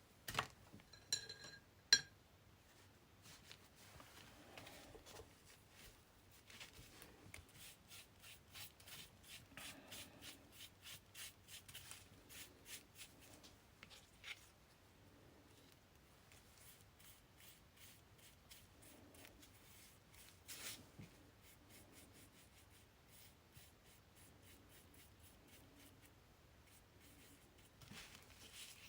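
Faint scratchy strokes of a brush spreading matte medium over paper, in quick runs, with a few sharp clicks in the first couple of seconds.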